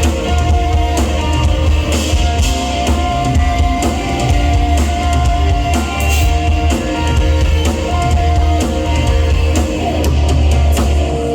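Live rock band playing, with a full drum kit and guitar over a heavy bass.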